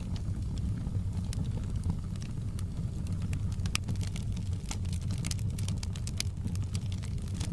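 Wood fire burning in a fireplace: a steady low rumble of flames with irregular sharp crackles and pops from the burning logs, coming more often in the second half.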